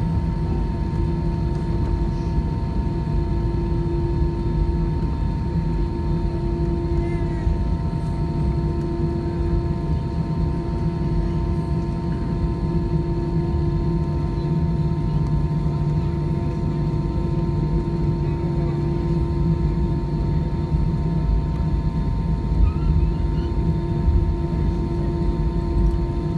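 Airbus A320 cabin noise: the engines and air system drone steadily, with several held tones over a low rumble.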